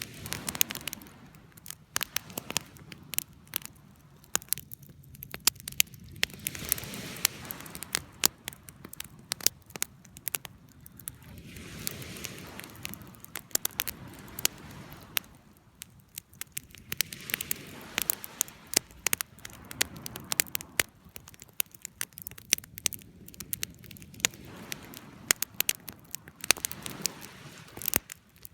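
Wood fire crackling, with many sharp pops and snaps over a soft rushing of flames that swells and fades every few seconds.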